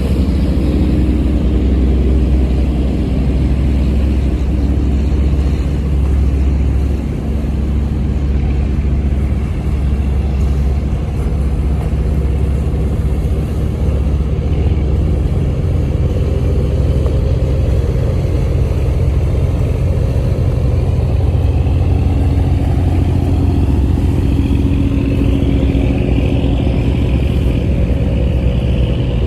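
A squid-fishing boat's engine running steadily, a loud low hum with a slight dip about seven seconds in.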